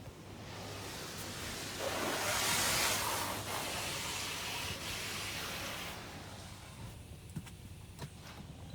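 Washworld High Velocity automatic car wash spraying water over the car, heard from inside it: a hiss that swells to its loudest about two to three seconds in and eases off after about six seconds.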